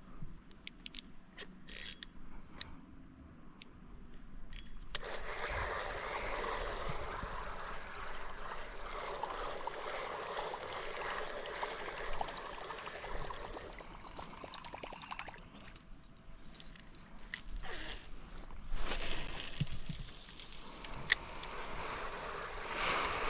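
A few sharp clicks from a fishing reel's drag being loosened, then a steady sound of water washing and trickling that eases off in the middle and picks up again near the end.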